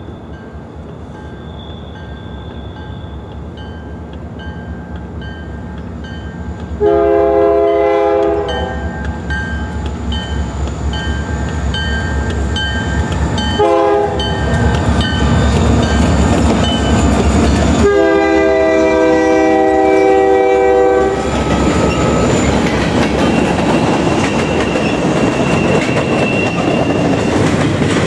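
Canadian Pacific freight led by two EMD SD40-2 diesel locomotives approaching and passing. The chord air horn sounds a long blast about seven seconds in, a short toot halfway through and another long blast, over the rising rumble of the diesels. In the last few seconds the double-stack container cars roll by with clickety-clack over the rail joints.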